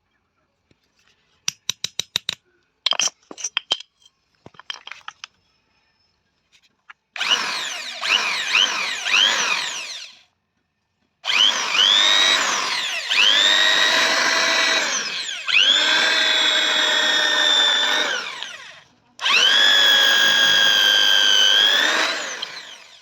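A handheld electric power tool runs in five bursts of a few seconds each. Its whine climbs at the start of each burst, then holds steady. A quick string of sharp taps comes before the first burst.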